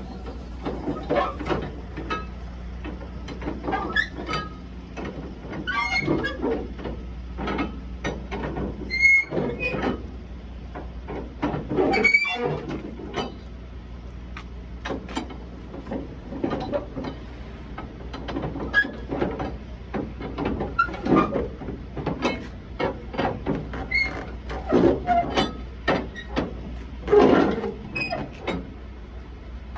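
Irregular knocks and clicks, some with short squeaks, over a steady low hum.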